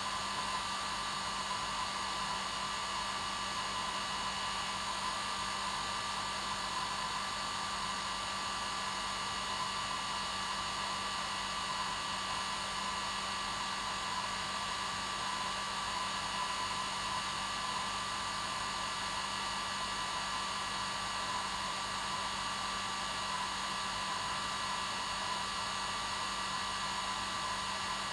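Hair dryer running continuously at its normal setting: a steady blowing hiss with a constant high whine and a low motor hum, unchanging throughout, played as white noise for lulling a baby to sleep.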